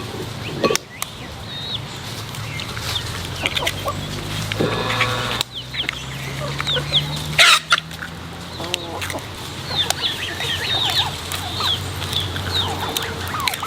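Chickens clucking, with many short high chirps and a steady low hum underneath. A single sharp knock comes about seven and a half seconds in.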